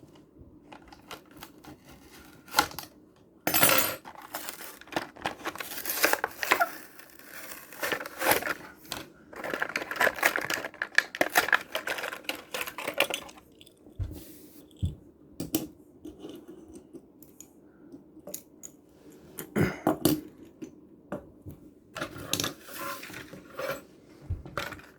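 Plastic blister and cardboard toy packaging being torn and pried open by hand: irregular crinkling, ripping and clicking in bursts, with quiet gaps between.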